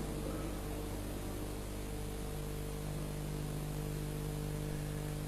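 Steady electrical hum with an even hiss beneath it, unchanging, with no voice: the background noise of the recording and sound system.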